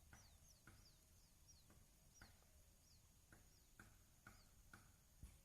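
Faint, high-pitched peeping of captured buttonquail chicks: short downward-sliding chirps, several a second at first and then more spaced out, with soft ticks between them.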